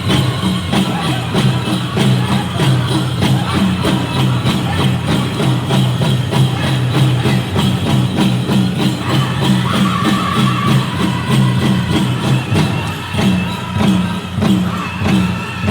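Powwow drum group singing a Chicken dance song over a steady, fast beat on a large shared drum, with the bells on the dancers' regalia jingling.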